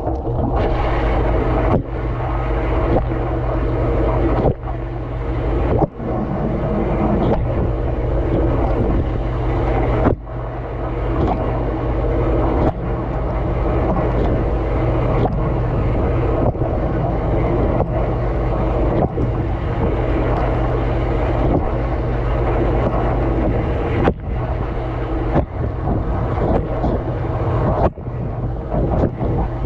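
Heard from inside a running dishwasher's tub: water spraying and splashing over the dishes and the camera, over the steady low hum of the wash pump motor. The spray drops out briefly a few times.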